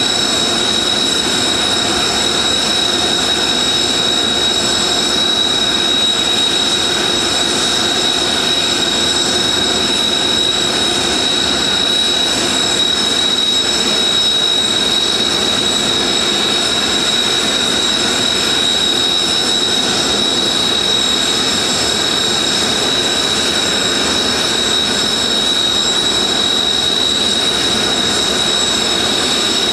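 Blue Impulse Kawasaki T-4 jet trainers' turbofan engines running steadily on the apron, a loud high-pitched whine over a broad rush.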